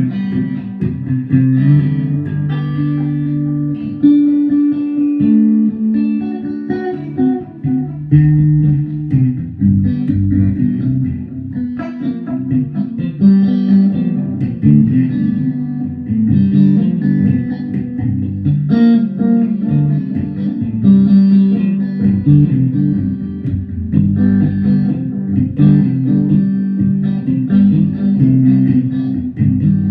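Guitar music: plucked notes and chords played continuously, steady in level.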